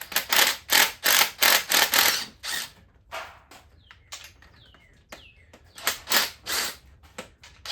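Hand ratchet wrench being worked in quick back-and-forth strokes, about three a second, each stroke a short burst of pawl clicks, as it turns out engine bolts. The strokes pause in the middle, where a few short falling chirps are heard, and resume near the end.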